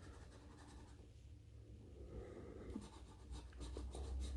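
Scratch-off lottery ticket being scratched: faint, quick rubbing strokes on the coating, coming thick and fast from about three seconds in.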